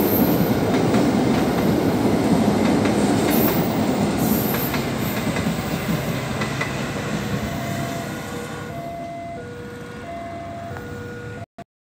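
Passenger train passing loudly over the rails, its wheels rumbling and clattering, then fading away over the last few seconds. As it fades, a level-crossing warning alarm's alternating two-tone chime stands out. The sound cuts off abruptly near the end.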